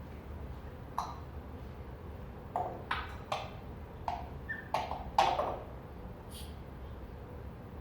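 A pet parrot making a string of short, sharp sounds, about eight over five seconds, the loudest about five seconds in.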